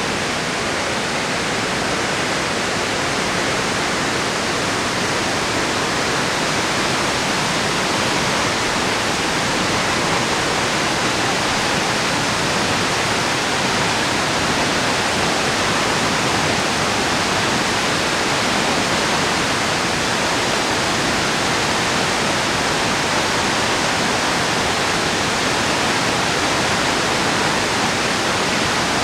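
Water released from the Kawaji Dam, a concrete arch dam, rushing and falling in a loud, steady wash of noise with no change. This is a flood-control discharge after heavy typhoon rain.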